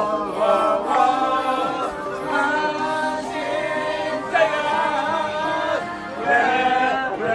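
Several voices singing a song together in long held notes, with music behind them.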